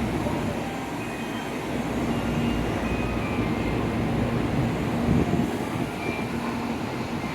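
N700A-series Shinkansen train at the platform: a steady low hum and rumble, with no distinct knocks or squeals.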